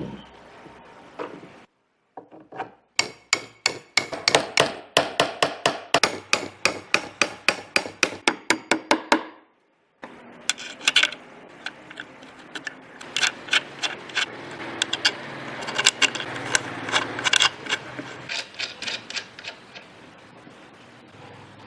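Rapid, evenly repeated strokes of a hand tool working wood, about four a second, in two runs with a brief break near the middle.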